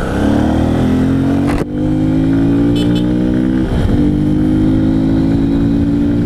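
Honda Bros 160's single-cylinder engine accelerating under way, pitch climbing in each gear with two upshifts, about one and a half and four seconds in. The airbox's intake hose has been removed, which lets more intake noise through.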